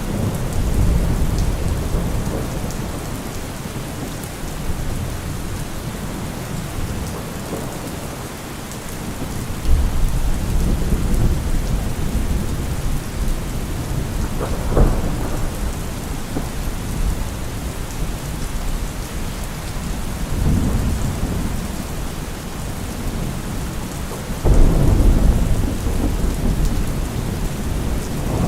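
Steady heavy rain with thunder rolling. Low rumbles of thunder begin suddenly about ten seconds in and again near the end, with a sharper crack about halfway through.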